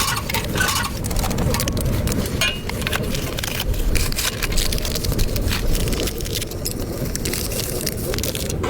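Wind buffeting the microphone in a snowstorm, a steady low rumble, with many irregular crunching and crackling sounds over it.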